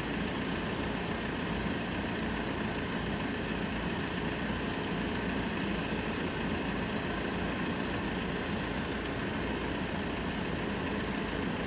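Steady engine and road noise heard inside a van's cab.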